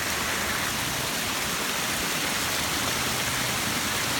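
Steady rush of water cascading over the rocks of a backyard pondless waterfall and stream.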